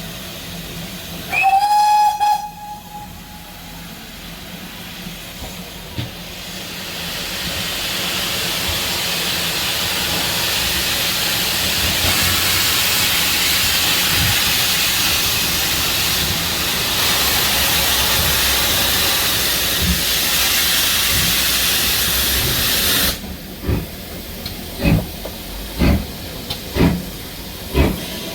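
Steam locomotive giving one short whistle blast, then a long, loud hiss of steam that stops suddenly. The hiss is followed by the start of a steady beat of exhaust chuffs, about two a second.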